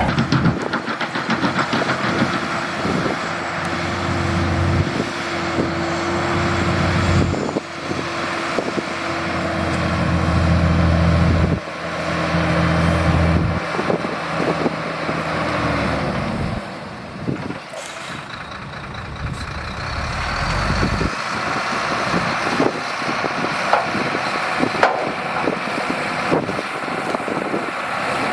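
Shantui DH17C2 bulldozer's diesel engine working under load, its note rising and falling as it pushes, loudest around the middle, with short knocks and clanks throughout.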